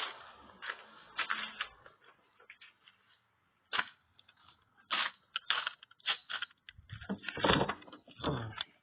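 Irregular knocks and clicks, with a cluster of heavier knocks near the end.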